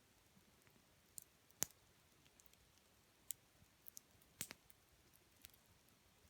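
Campfire wood crackling: scattered sharp pops and snaps over a faint, quiet background. The loudest pop comes about one and a half seconds in, and a small cluster follows around four seconds.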